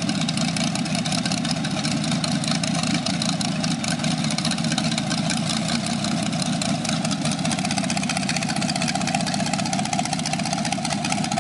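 1967 Corvette L79 327 small-block Chevy V8 idling steadily on an engine stand through open headers.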